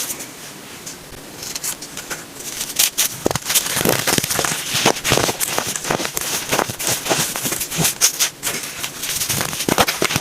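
Compacted baking soda being crushed, giving crisp, irregular crunching and crackling. It starts faint and becomes dense about a second and a half in.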